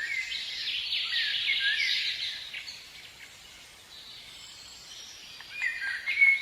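Birds chirping: many short calls over a faint background hiss, thinning out in the middle and picking up again near the end.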